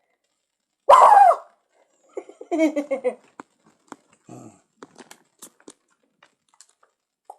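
A startled cat cries out: one loud yowl falling in pitch about a second in, then a shorter run of lower, broken cries. Scattered light clicks and scuffs follow.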